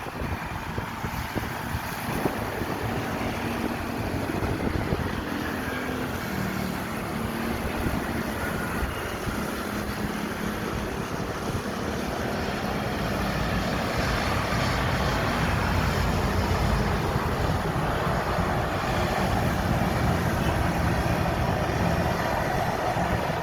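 Airbus A320 landing: steady jet engine and airflow rush with a low hum, growing louder about halfway through.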